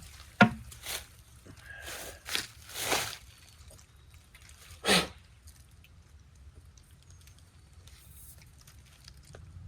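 A sharp click, then a few irregular footsteps and rustles of someone walking outdoors.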